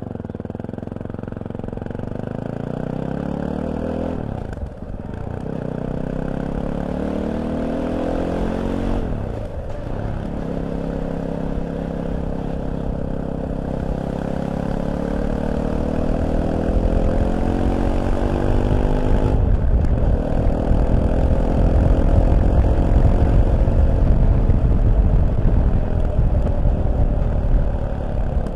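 Fantic Caballero 500's single-cylinder engine accelerating through the gears: its pitch climbs in each gear and drops briefly at three upshifts, about 5, 10 and 20 seconds in. A low rush of noise grows louder as speed builds.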